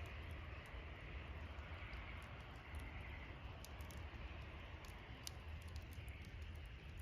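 Wood campfire burning, with scattered small crackles and pops and one sharper pop about five seconds in, over a steady low rumble.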